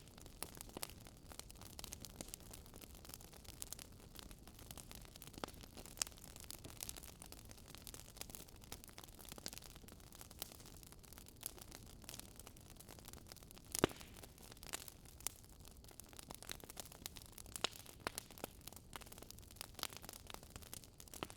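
Burning wood crackling faintly: irregular sharp pops and snaps over a low hiss, with one louder pop about fourteen seconds in.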